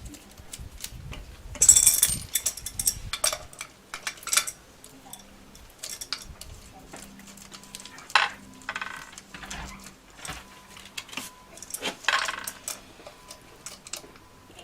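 Hand tools and metal parts of an e-bike hub motor clinking, knocking and scraping during reassembly, in irregular bursts with a few short rasping scrapes.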